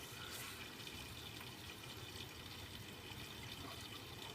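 Water running in a Miele W Classic WDA110 washing machine, a faint steady trickling and sloshing.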